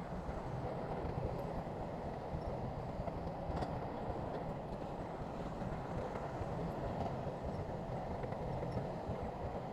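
Shantui crawler bulldozer's diesel engine running steadily, a dense low rumble with no rise or fall in pitch.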